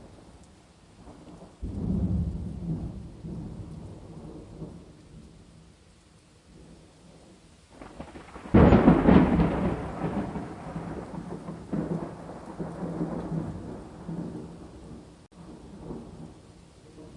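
Thunder over steady rain: a first roll starts about a second and a half in and fades over a few seconds, then a louder clap near the middle rumbles on, fading away over several seconds.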